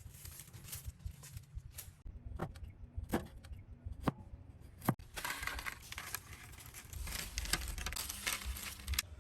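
Handling noises: rustling, with a handful of sharp clicks spread over the first five seconds and denser rustling after that.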